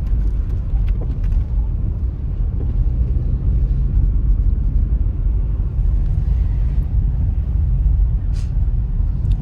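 Steady low rumble of a car driving on a snowy road, heard from inside the cabin: engine and road noise, with wind in the mix. A short faint click about eight seconds in.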